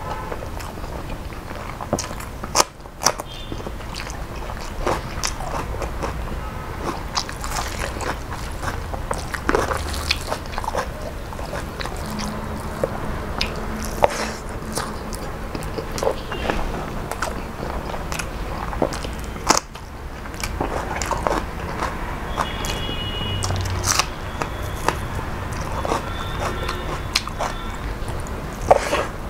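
Close-up chewing and mouth sounds of a man eating rice and curry by hand, with irregular sharp clicks and crunches as he bites, and his fingers mixing rice with red spinach on a steel plate.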